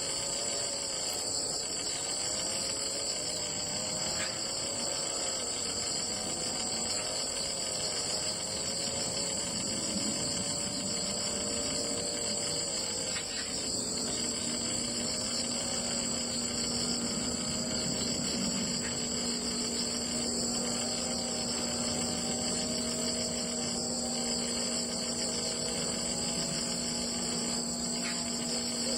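Steady high-pitched chorus of insects trilling continuously, cricket-like. A low steady hum joins about halfway through.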